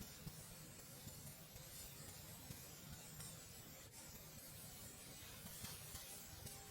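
Campfire crackling faintly: a soft, steady hiss with scattered small pops and ticks.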